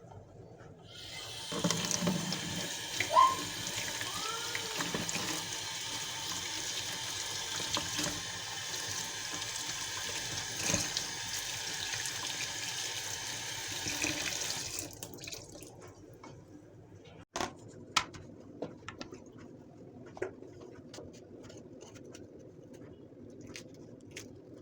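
Water running from a tap into a sink for about fourteen seconds, then shut off, followed by scattered light clicks and knocks.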